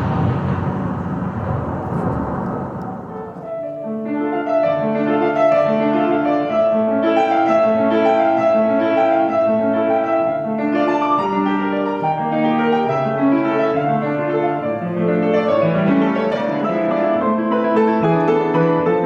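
Piano playing a classical piece in flowing, repeated broken chords. It enters about three and a half seconds in, as a rush of noise fades away.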